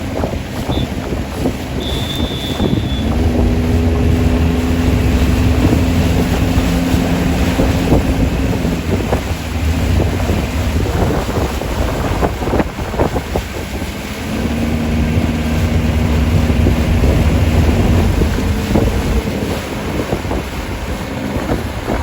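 Wind buffeting the microphone in gusts. A steady low hum comes in twice, for about six seconds and then about four.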